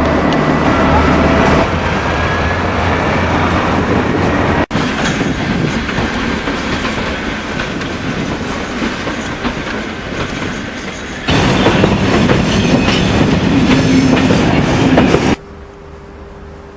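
Trains moving through a railway station, heard in several clips joined with abrupt cuts. About a second and a half before the end the sound drops to a much quieter steady hum.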